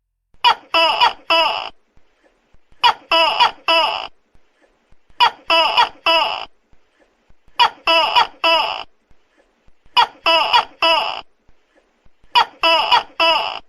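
Tokay gecko calling loudly: bursts of three short pitched calls, repeated evenly about every two and a half seconds, six bursts in all.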